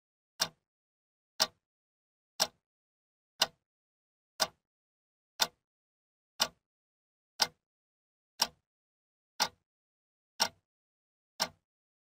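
Countdown-timer tick sound effect: a sharp, dry click once a second, twelve in all, with silence between.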